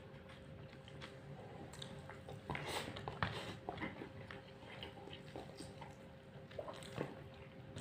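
Quiet eating sounds: chewing and small clicks as chicken biryani rice is eaten by hand from a plastic takeaway tray. A busier run of clicks comes about two and a half to three and a half seconds in.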